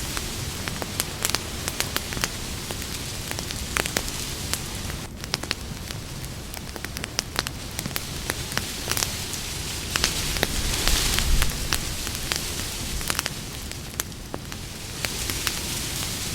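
Campfire burning: a steady hiss of flames with many sharp, irregular crackles and pops from the burning wood, and a brief swell of hiss about ten seconds in.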